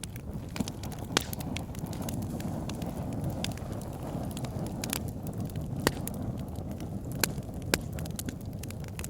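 Wood fire burning in a fireplace: a steady low rumble of flame with irregular crackles and a few sharp pops as the logs burn.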